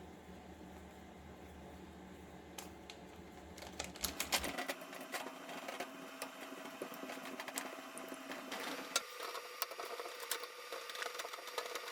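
Kitchen work noises: a steady low hum that stops about four and a half seconds in, with a run of quick clicks and taps of utensils and cookware through the middle.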